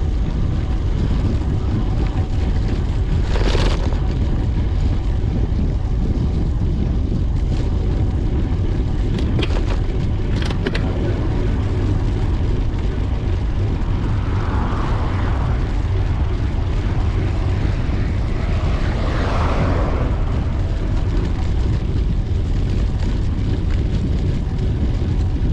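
Steady, loud wind rumble buffeting the microphone of a camera on a moving bicycle, with a few brief clicks about ten seconds in.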